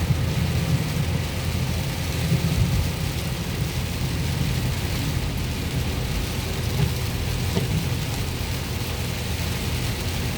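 Steady road and engine rumble inside a moving car, with rain hissing on the car.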